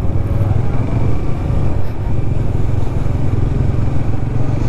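Motorcycle engine running steadily under way, a constant low rumble.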